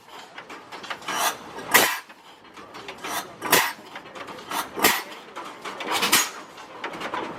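Irregular sharp metallic clanks and knocks, about one a second, with no engine running: hands and tools at work on the old tractor while it is readied for starting.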